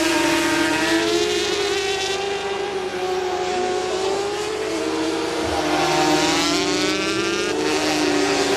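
Several 400 cc SuperSport racing motorcycles running at high revs. The pitches of several engines overlap, rising and falling as the bikes accelerate and pass.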